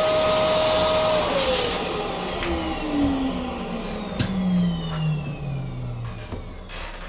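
Electric motor whining steadily, then switched off about a second in: its whine and rushing hiss fall steadily in pitch and fade as it spins down over about five seconds. A sharp click about four seconds in.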